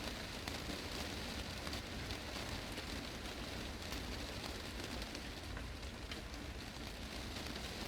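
Heavy rain drumming on a glass greenhouse roof: a steady dense patter of drops with many sharp individual ticks.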